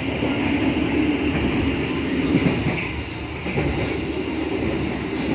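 Steady running noise inside a moving passenger coach: the constant low rumble of the train's wheels and bogies on the track.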